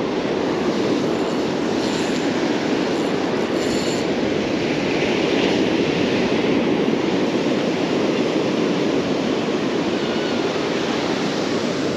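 Steady rushing noise of surf breaking on the beach, even in level throughout.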